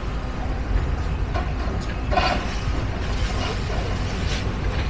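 Steady low outdoor rumble of street background noise, with a few faint knocks and a brief distant voice about two seconds in.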